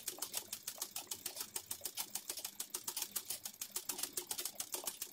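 Ordinary domestic sewing machine running steadily for free-motion satin-stitch embroidery: an even run of needle strokes, about ten a second.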